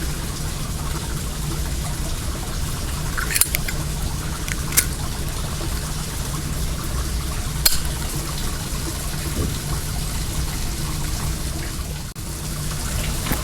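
Well water running in a steady, unbroken stream, with the bonfire's burning wood popping sharply three times.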